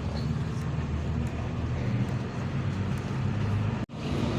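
Hino 1J bus's diesel engine running steadily, with a brief dropout in the sound near the end.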